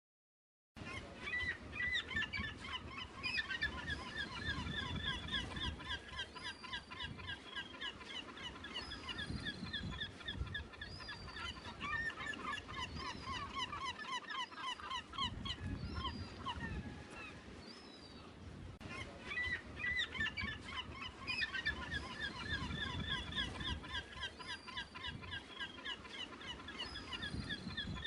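Many birds calling at once, a dense flock chorus of short overlapping calls over a low rumble. It starts abruptly about a second in, thins out for a few seconds around the middle, then builds again.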